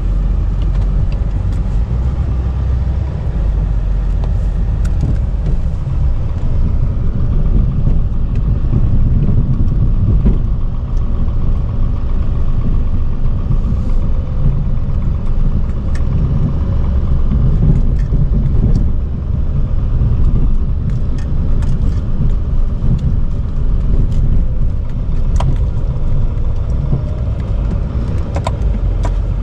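Chevy K3500 dually's Duramax turbodiesel V8 running steadily under plowing load, a continuous low rumble, with a few light clicks scattered through it.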